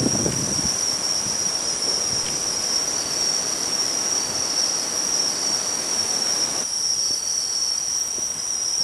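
Crickets chirring steadily, a continuous high-pitched trill, with a little wind on the microphone fading out just after the start.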